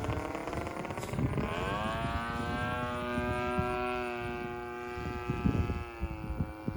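Pilot RC Laser's 20cc gas engine droning in flight, its pitch dropping as the plane passes, then holding steady. Wind buffets the microphone.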